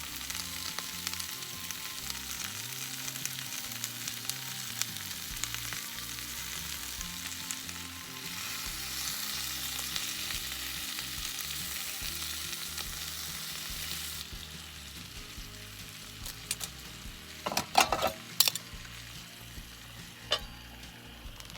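Sliced new onions and coarse-ground sausages sizzling in butter and olive oil in a frying pan. The sizzle drops off about two-thirds of the way through, and a few sharp clicks of a utensil follow near the end.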